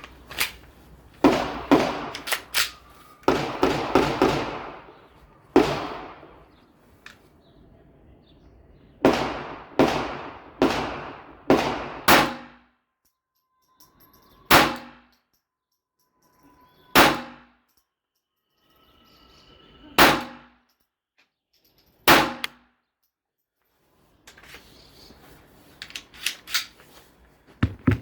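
Pistol shots from a Glock fired in a Roni carbine conversion kit, each crack followed by a short ringing echo. About a dozen shots come in quick succession in the first half, then four single shots a few seconds apart.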